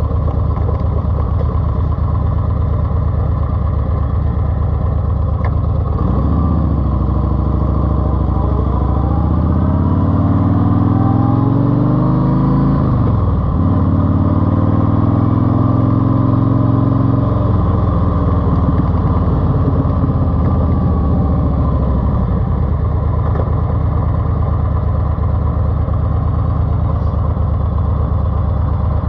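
Car engine through a TAB exhaust with 2.5-inch baffles, running steadily. About six seconds in it accelerates with the pitch climbing, drops pitch at a gear change about halfway through, climbs again, then eases back to a steady cruise.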